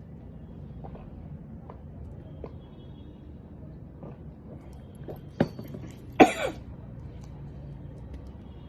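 A steady low background hum with a few faint clicks; about six seconds in, a sharp click, then one short cough-like sound from a person's voice.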